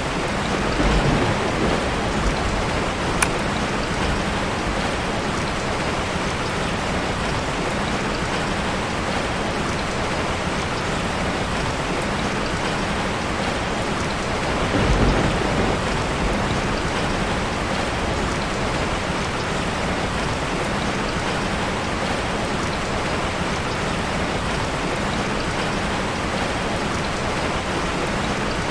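Steady heavy rain falling, with low rolls of thunder swelling about a second in and again about halfway through, and a single sharp tick a few seconds in.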